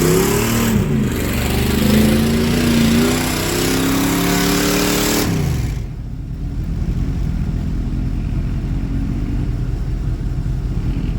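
Mud truck's engine revving in repeated rising and falling surges while it is driven on a rear tire blown off its bead, then dropping back about six seconds in to a steadier, lower running note.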